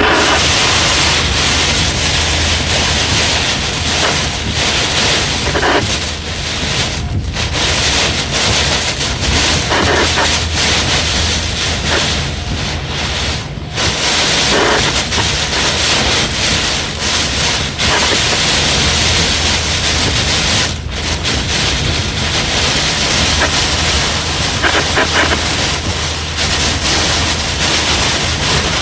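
Heavy thunderstorm rain and wind, a loud steady hiss of noise with wind buffeting the microphone. It dips briefly a few times.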